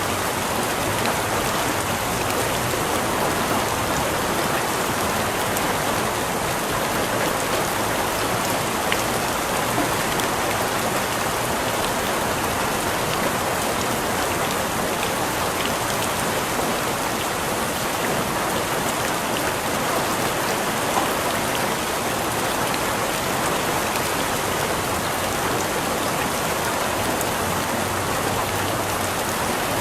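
Steady rain falling, an even hiss with scattered drops hitting a surface.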